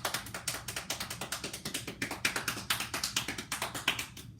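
Palms patting rapidly and firmly up and down the legs, an even run of many quick slaps a second, played as body percussion imitating heavy rain.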